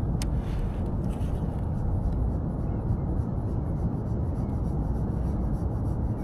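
Wind buffeting the microphone as a steady low rumble, with one sharp click just after the start.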